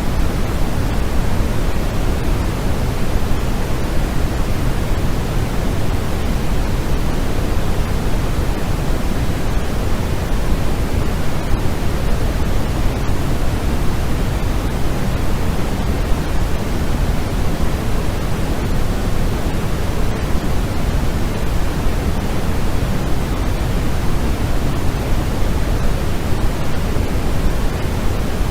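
Steady, unbroken white noise for sleep, weighted toward the low end so it sounds deep rather than hissy, closer to pink noise. It does not change.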